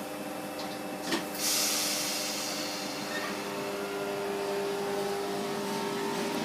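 A train running, giving a steady hum of several tones, with a short click about a second in followed by a hiss that joins and carries on.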